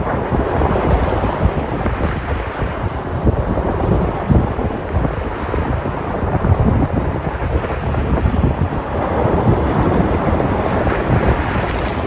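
Sea waves breaking and washing on the shore, with wind buffeting the microphone as a gusty low rumble.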